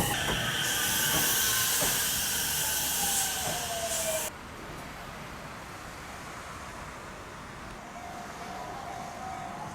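Electric train on a single-track line, with loud hissing noise and a whine that falls steadily in pitch as the train slows. It cuts off abruptly about four seconds in, leaving a quiet steady hum with a faint steady tone near the end.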